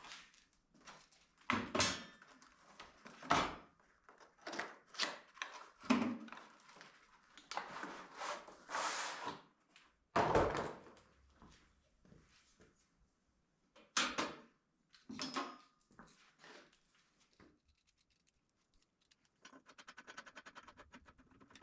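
Steel parts and hardware of a modular welding table being handled: a series of clanks and knocks with a couple of scraping slides, then a fast run of even clicks near the end as a caster stem is threaded in.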